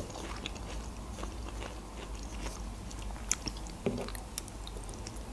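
A person chewing food close to the microphone, quiet, with faint scattered mouth clicks.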